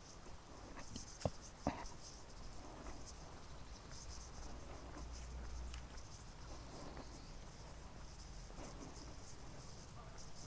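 Insects chirping in a continuous high-pitched flickering chorus, with two sharp clicks between one and two seconds in.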